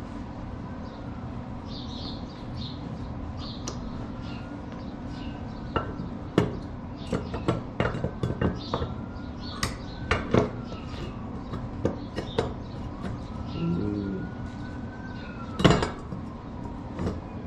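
Metal clinking and clanking as steel pieces are handled, in irregular knocks with the loudest about three-quarters of the way through, over a steady low hum. A siren wails faintly in the distance, rising and falling.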